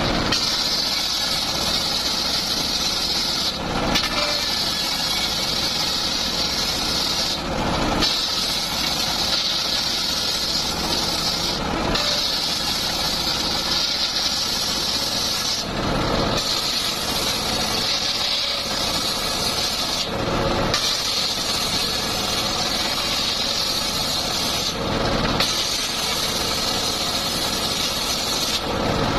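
Homemade circular sawmill running and ripping teak, a steady high-pitched saw noise with a short change in the sound about every four seconds.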